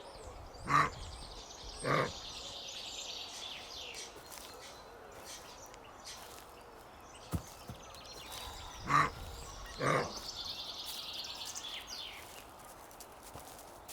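Female deer calling her fawn to join her: short calls, two about a second apart near the start and two more about nine seconds in. Songbirds sing in between.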